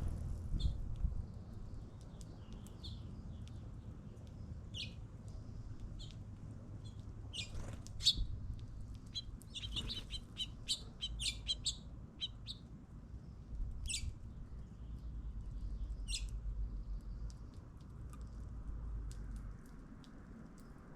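Small birds chirping: short, high calls scattered through, with a quick run of chirps about halfway through, over a low steady rumble.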